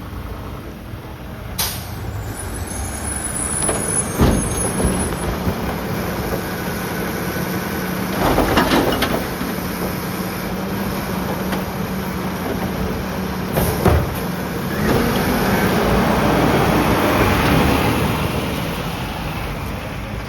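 Mack LR side-loader garbage truck's diesel engine running with a steady drone, broken by a few sharp clanks and louder hissing rushes of air, typical of air brakes and the truck's working gear.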